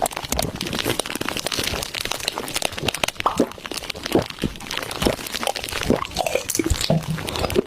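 Crunching and crackling: a dense, irregular run of small snaps and crackles.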